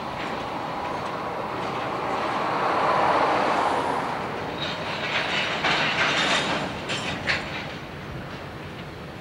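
A diesel locomotive approaches slowly through a rail yard while a car passes close by on wet pavement, with tyre hiss swelling and fading over the first few seconds. From about five seconds in there is a run of sharp metallic clanks and rattles, then the sound settles to a steadier rumble.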